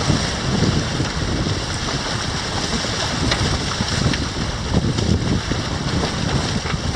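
Wind buffeting the microphone over the rush and splash of water along the hulls of a Grabner Hurricane catamaran sailing fast in a 17–22 knot breeze. Steady, with gusty low rumbles throughout.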